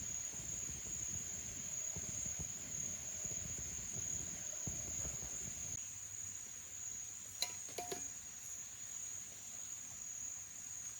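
Cicadas droning as one steady, high-pitched whine, over a low rushing noise that fades after about six seconds. A couple of short clicks come about seven seconds in.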